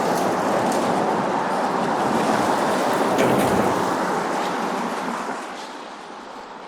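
A car passing on a snow-covered street, its tyres hissing through slush. The rushing sound fades away from about five seconds in.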